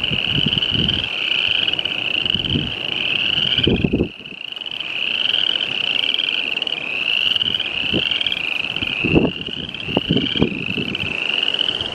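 Chorus of spring peepers, many overlapping short rising peeps calling continuously. Several low thumps come through underneath.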